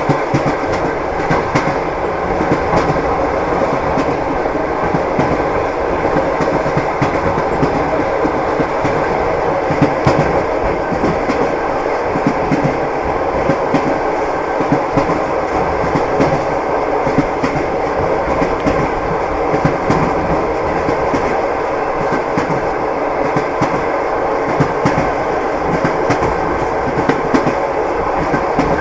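Train wheels clacking over the rail joints above a steady running rumble, heard from inside a railway carriage.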